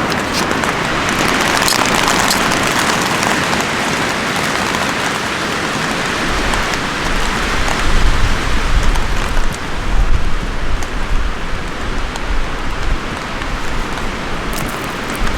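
Steady rain falling in a dense hiss of drops. From about six seconds in, strong gusts of wind buffet the microphone with an uneven low rumble.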